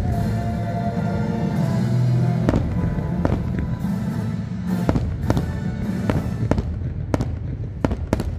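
Fireworks exploding in a series of sharp bangs and pops that come faster in the second half, over background show music.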